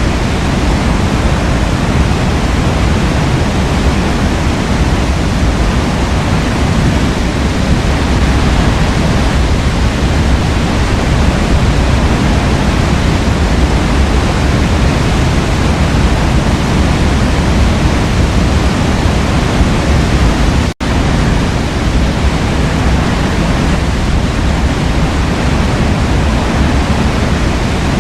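Forest waterfall pouring, a steady loud rush of water with a heavy low rumble. The sound cuts out for an instant about three-quarters of the way through, then carries on unchanged.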